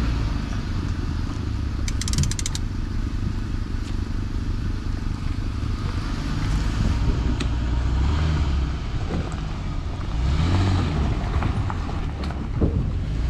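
An engine running at a steady low rumble while a boat is worked onto its trailer at a launch ramp, with wind buffeting the microphone. About two seconds in there is a short burst of rapid clicks.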